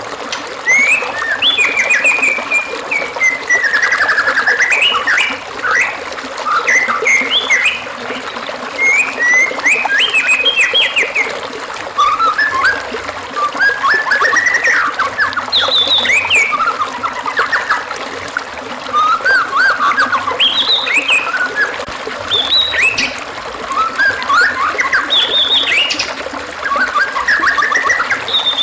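White-rumped shama singing a long run of varied phrases of quick whistles, sweeps and trills, with short pauses every couple of seconds, over a steady background hiss.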